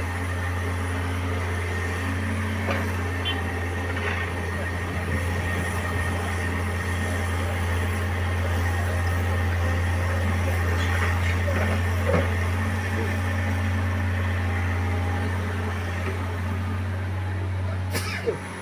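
Diesel truck engine running steadily, a low, even drone, with a sharp knock near the end.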